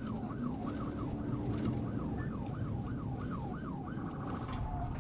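Police car siren in yelp mode, sweeping rapidly up and down about three times a second, over the low rumble of the pursuing car's engine and road noise at high speed. About four seconds in, the siren switches to a faster, steadier warble.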